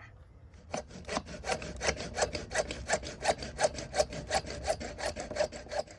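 Hand saw cutting through plastic PVC furnace vent pipe in quick, regular back-and-forth strokes, starting about a second in.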